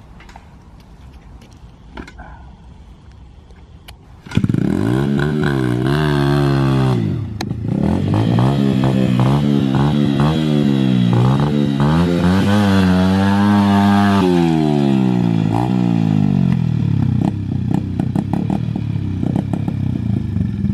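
Small dirt bike engine (the Mint 80) coming in suddenly about four seconds in and revving hard. Its pitch rises and falls again and again, as if working through mud, then runs steadier near the end.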